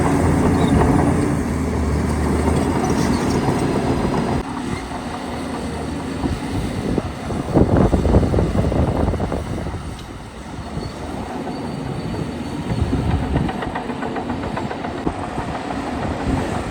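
Heavy diesel earth-moving machinery running with a steady engine hum and a rattling clatter. The sound changes at about four seconds and grows louder and rougher for a couple of seconds in the middle.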